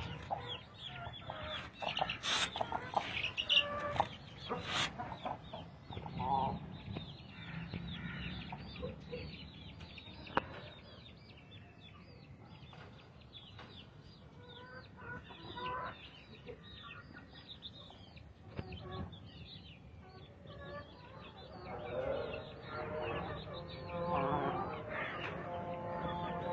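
A flock of hens clucking and chirping, many overlapping short calls. A few sharp knocks sound in the first five seconds, and near the end some longer held calls rise above the flock.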